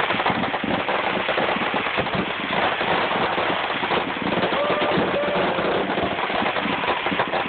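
Fireworks crackling: a dense, continuous run of rapid pops and crackles, like a string of firecrackers going off.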